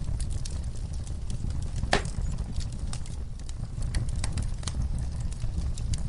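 Wood fire crackling, irregular sharp pops and snaps over a low steady rumble, with one louder pop about two seconds in.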